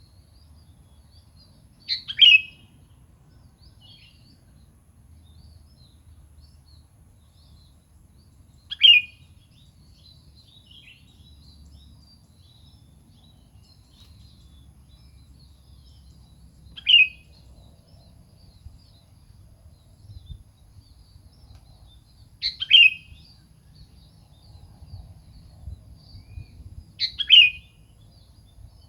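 Sooty-headed bulbul (kutilang) giving five short, sharp calls several seconds apart, each a quick downward chirp, over a faint low hum.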